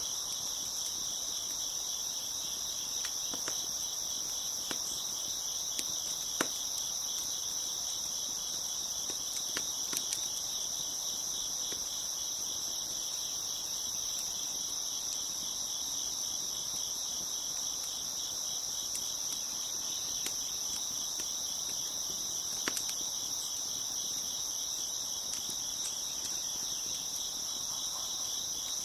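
Crickets chirping in a steady, dense chorus, with a few sharp pops scattered through it from a crackling wood fire.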